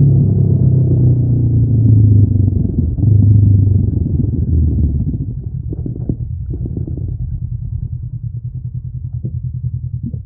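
Honda NX500's parallel-twin engine through its stock exhaust, slowing down with the pitch falling, then running slow and quieter with an even pulsing beat. The sound cuts off suddenly at the end.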